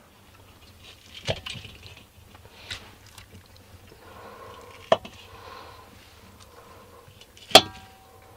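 Sharp knocks and a soft rustle from handling things at a fireplace as it is being lit. Near the end comes the loudest sound, a metallic clank that rings on briefly.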